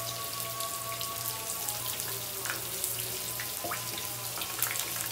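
Tofu slices shallow-frying in hot oil in a pan, a steady crackle with scattered sharp pops and spits. A steady low hum runs underneath.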